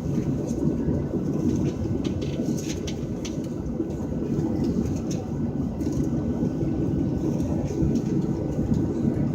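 Steady rumble heard inside a Boeing 737's passenger cabin on the ground, the aircraft's engines and air systems running, with a few faint ticks and rattles over it.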